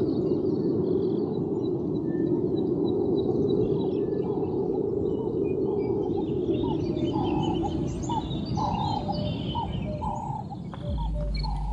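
Birds chirping and calling, many short repeated calls that grow busier from about halfway through, over a steady low background noise.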